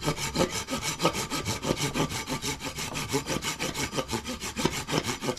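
Hand saw cutting through a piece of firewood, in quick, even back-and-forth strokes, several a second.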